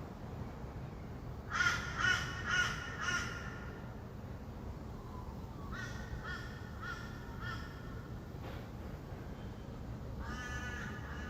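A bird calling in series of short, evenly spaced calls: four loud calls about a second and a half in, five fainter ones around six seconds, and another series starting near the end. A steady low hum of distant traffic runs underneath.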